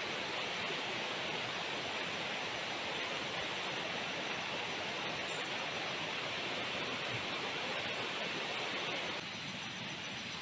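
Heavy tropical rain falling in a steady, even hiss, with a thin high whine over it. About nine seconds in the whine stops and the rain turns a little quieter.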